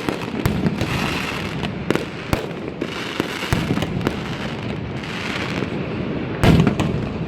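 Fireworks going off in quick succession: a steady crackle with many sharp bangs, the loudest bang about six and a half seconds in.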